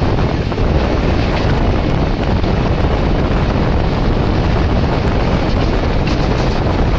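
Loud, steady rush of a moving EMU suburban electric train, its running noise mixed with wind buffeting the microphone.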